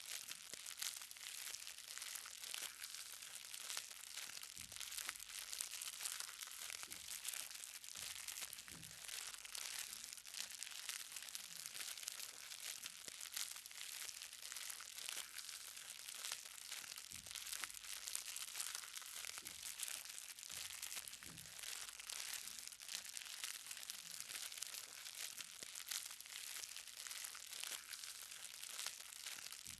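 Light rain, a dense, even patter of small drops hitting the ground, with now and then a single louder drop.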